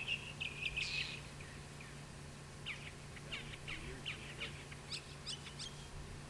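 Birds chirping: a few calls near the start, then a quick run of short, falling chirps in the middle, over a steady low hum.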